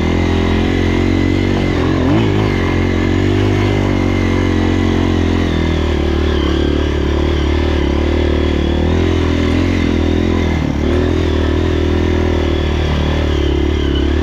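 Honda CRF230F dirt bike's air-cooled single-cylinder four-stroke engine running steadily under way, its note holding fairly even with a brief dip about ten seconds in.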